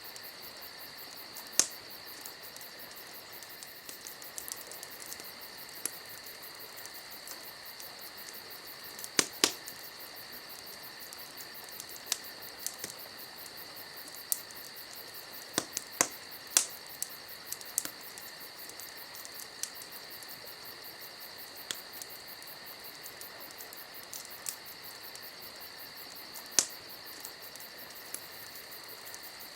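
Campfire crackling: sharp single pops of burning wood, irregular and a few seconds apart, with a cluster of louder pops near the middle. Under them runs a steady high trill.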